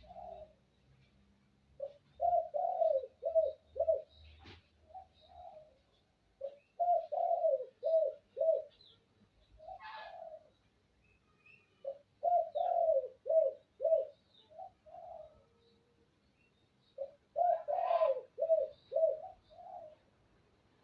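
White spotted dove cooing in four repeated phrases about five seconds apart. Each phrase is a quick run of about five low, arched coos, followed by one or two softer trailing coos.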